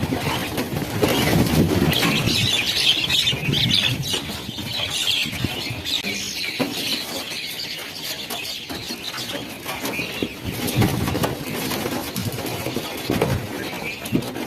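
A large flock of birds in flight, a dense rush of flapping wings mixed with many birds calling together. It is somewhat fuller in the first half.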